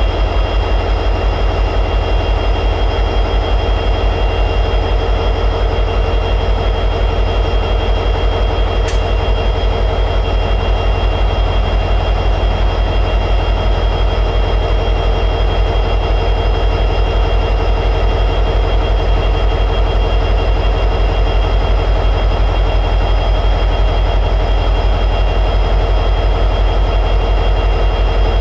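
EMD 710G3B 16-cylinder two-stroke diesel prime mover of an SD60E locomotive running steadily at high idle: an even, rapid low throb with a thin steady high whine over it.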